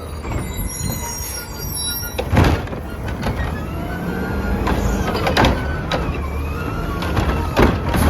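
Garbage truck with a Curotto-Can cart arm: the engine runs with a steady low rumble, and three loud clanks sound, a couple of seconds apart, as a cart is handled and dumped.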